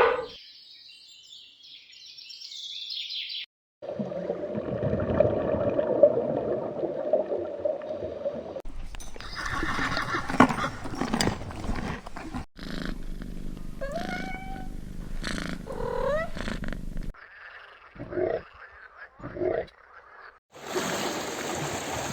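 A string of separate animal sound recordings cut one after another: a steady rough, growl-like sound, then short upward-sweeping calls, two brief calls, and another noisy recording starting near the end.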